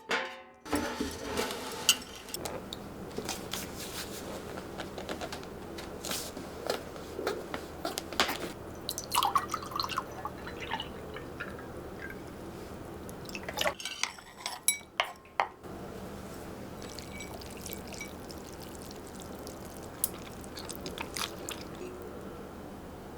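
Kitchen handling sounds: scattered light clinks and taps of dishes and glassware with liquid pouring and dripping, over a faint steady low hum.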